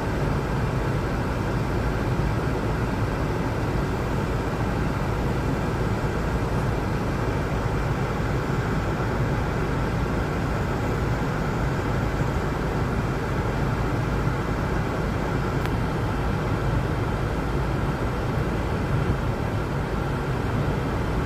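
Steady, unchanging low rumble with a hiss over it, like vehicle or road noise.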